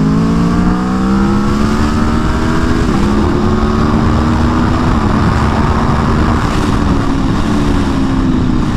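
Stock 2022 Aprilia Tuono V4 1100 Factory's V4 engine accelerating, revs rising for about three seconds, then a quick upshift and the engine running on at a steady, slowly easing pace, over steady wind rush from riding at speed.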